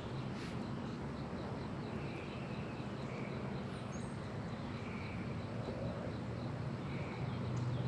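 Honeybees buzzing around an open hive: a steady low hum that swells slightly near the end. A rapid, even high-pitched chirping repeats in the background.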